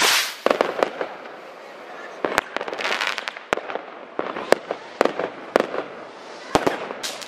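New Year's Eve fireworks going off: about a dozen sharp bangs at irregular gaps, from rockets bursting and firecrackers. Crackling fills the gaps between them, and the loudest burst comes right at the start.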